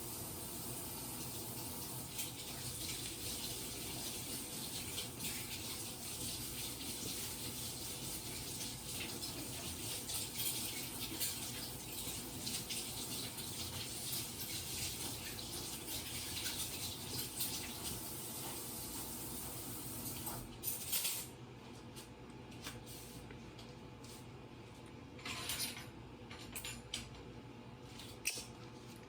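Water running from a tap in an even hiss, cut off suddenly about two-thirds of the way through, followed by a few light clicks and knocks.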